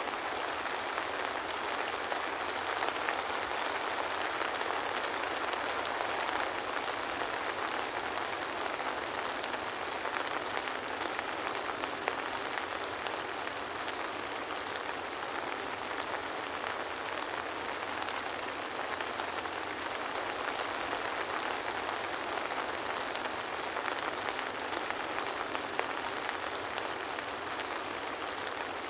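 Steady soft rain: an even hiss with faint scattered drop ticks, no thunder.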